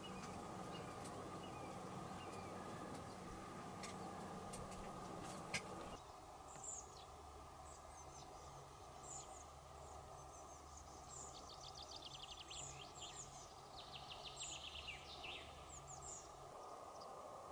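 Faint outdoor ambience. For about six seconds there is a low steady hiss with a few sharp clicks. After an abrupt change, small birds call with high, thin falling notes and several quick trills.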